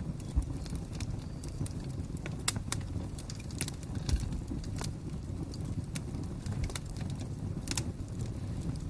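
Wood fire crackling: irregular sharp pops and snaps over a steady low noise of burning.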